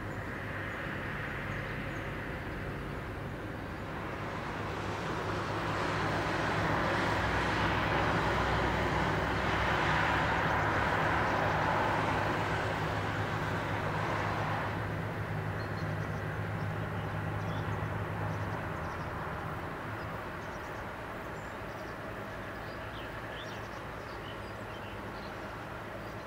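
A train running past at a distance: the rolling rail noise swells over several seconds, peaks about ten seconds in and fades away, over a steady low hum that stops a few seconds later.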